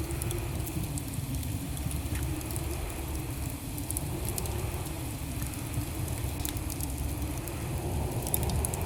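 Wood fire burning in a fireplace: a low steady rumble of flames with scattered sharp crackles and pops, a few louder ones near the end.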